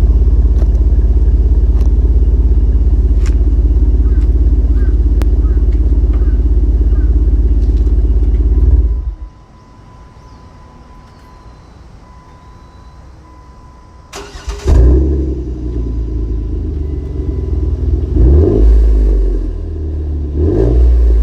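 Jeep Wrangler engine through a Gibson Metal Mulisha aftermarket exhaust: it idles steadily, is switched off about nine seconds in, then is restarted some five seconds later. Near the end it is revved twice.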